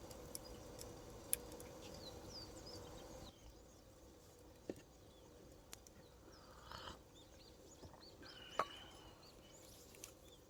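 Faint small-bird chirps over quiet outdoor ambience, with a few sharp isolated clicks. A steady background hum drops away abruptly about three seconds in.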